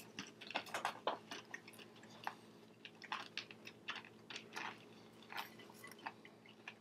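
Two people chewing mouthfuls of popcorn mixed with M&Ms and broken pretzel sticks: faint, irregular crunching.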